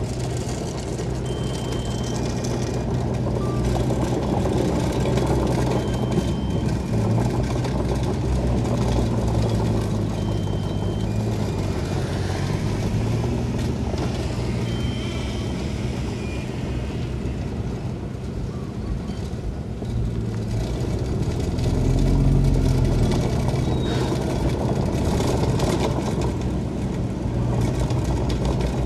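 Heavy diesel construction machinery running steadily, rising in pitch and loudness briefly a little past the middle, with short high beeps every few seconds.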